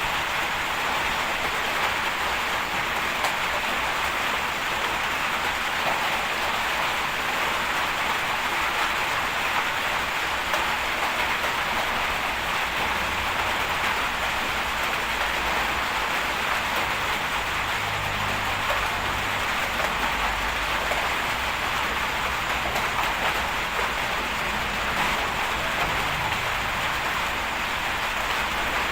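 Heavy bulldozer's diesel engine running under load, its low note shifting from about halfway through, beneath a steady, even hiss that is the loudest sound throughout.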